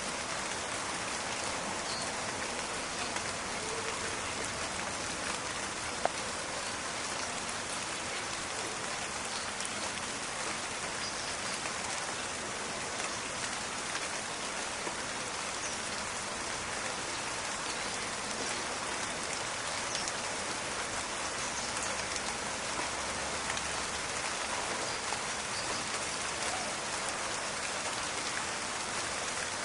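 Steady rain falling and pattering on leaves and the ground, a dense even patter of drops with a sharp single drop-tick about six seconds in.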